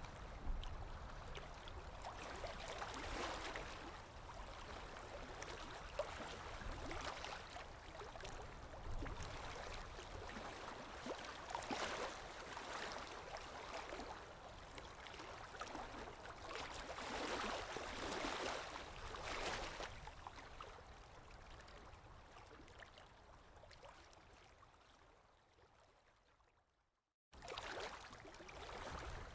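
Running water of a stream, an even rushing that swells and eases every few seconds. Near the end it fades away to a brief moment of silence, then cuts back in abruptly, as at the seam of a looped recording.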